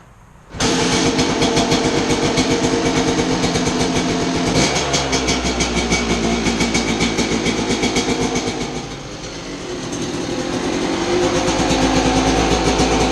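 Freshly rebuilt 1991 Kawasaki KDX200's two-stroke single-cylinder engine running. Its pitch shifts a little past a third of the way through, it dips in level about two-thirds through, then builds back up.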